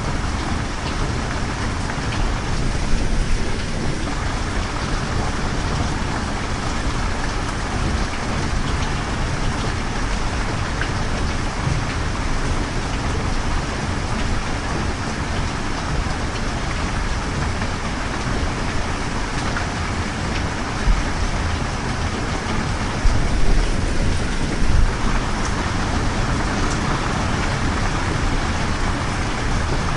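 Steady rain: a continuous hiss of falling rain with a deep low rumble beneath it, which swells briefly a few times.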